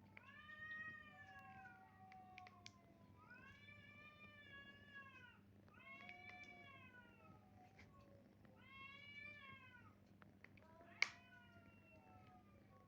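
Cats meowing: about five long, drawn-out meows that rise and fall in pitch, a few seconds apart, with a sharp click about eleven seconds in.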